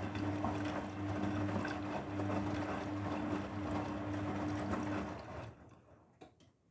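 Grundig washing machine running with a steady motor or pump hum and rushing water. The hum stops about five seconds in, followed by a few short clicks.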